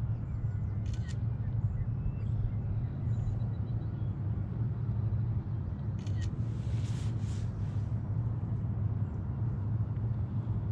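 Steady low outdoor rumble, with two sharp clicks about one and six seconds in and a brief whoosh just after the second.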